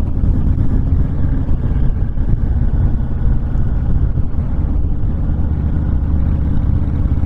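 Honda VTX1300 V-twin cruiser riding at a steady highway pace: a constant low engine drone mixed with wind rushing over the microphone.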